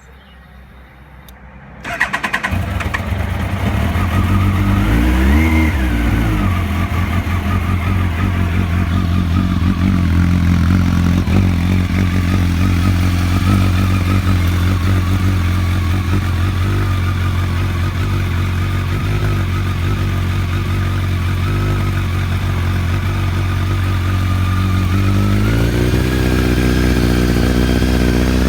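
A 2001 Kawasaki ZX12R's 1200cc inline-four starts and catches about two seconds in. It gives one quick rev that rises and falls, then idles steadily.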